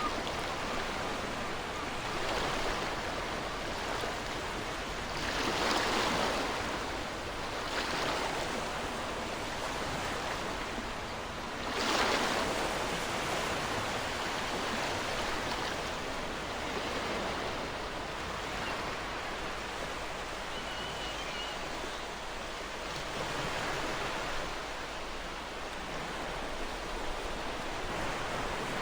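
Ocean waves washing onto a shore: a continuous rushing surf with waves swelling and breaking every few seconds, the strongest about six and twelve seconds in.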